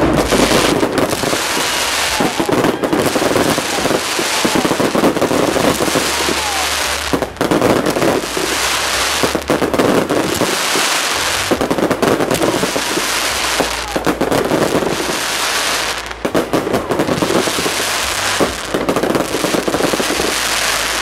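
Aerial fireworks going off in a continuous barrage: dense bangs and crackling with no break, swelling and easing every couple of seconds.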